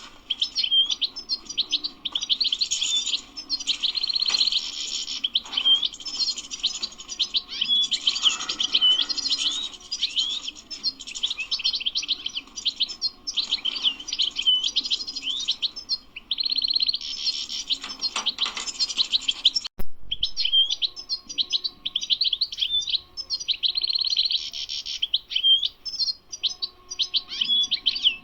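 European goldfinch singing: a fast, continuous twittering song of rapid chirps and trills. The song breaks with a short click about twenty seconds in, then carries on.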